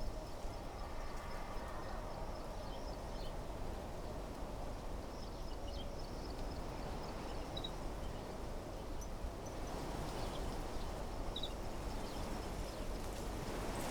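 Wind blowing through trees, a steady rustling hiss, with a faint high insect buzz and a few short bird chirps.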